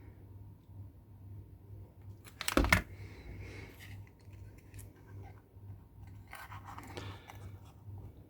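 Small components and tools being handled on a workbench: a brief loud clatter about two and a half seconds in, then lighter clicks and rustling near the end, over a steady low hum.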